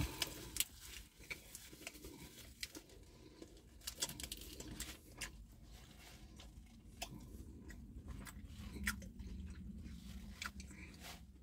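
A person chewing a mouthful of pulled pork burger with the mouth closed, with soft wet mouth clicks scattered throughout. Right at the start, a paper napkin is rubbed over the mouth.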